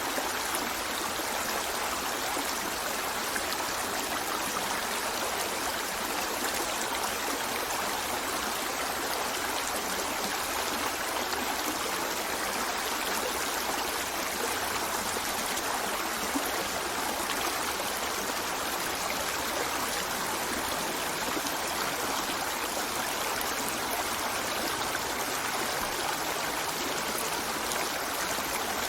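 A river flowing over rocks, a steady rushing and trickling of water that does not change.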